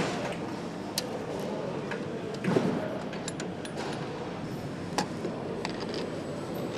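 Motorcycle-factory floor ambience: a steady background hum broken by a few sharp clicks and knocks, with a louder short rush about two and a half seconds in.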